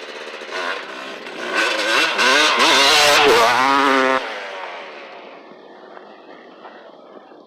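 Motocross dirt bike riding past close by, its engine pitch rising and falling as the rider works the throttle, loudest about two to four seconds in, then dropping off suddenly and fading into the distance.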